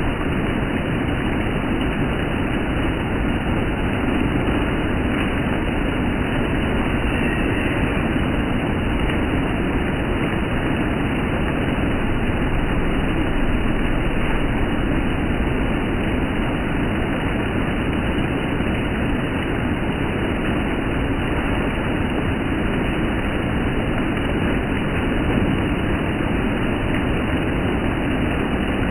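Steady rain falling, a dense, even wash of sound that holds unchanged throughout.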